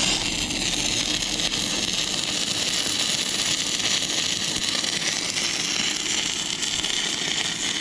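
Stick (shielded metal arc) welding arc burning steadily, an even crackling hiss as the electrode is run on rusty, painted thin metal.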